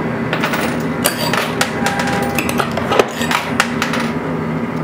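Quarters clinking and clattering in a coin pusher machine: a run of irregular sharp metal clicks over a steady arcade hum.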